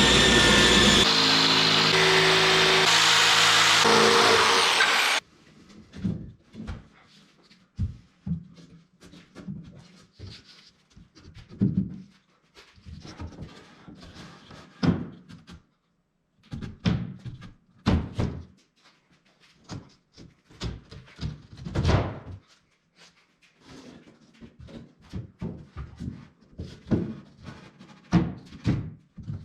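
A power tool runs loudly and steadily, then stops abruptly about five seconds in. After that come irregular knocks and thunks of wood being handled and set down in the workshop.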